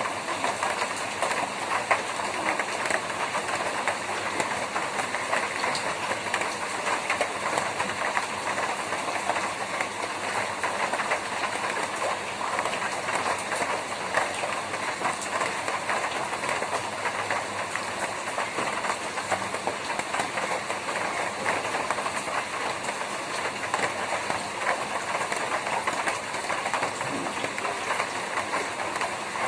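Steady, dense rain drumming on a tin roof, a constant patter of many small drop impacts on the metal sheets.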